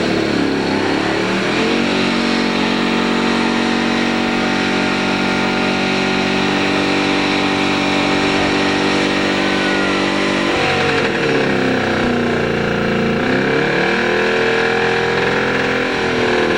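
A truck's 454 big-block V8 revved hard and held at high rpm during a burnout. The revs sag and climb back twice about ten to fourteen seconds in, then hold high again.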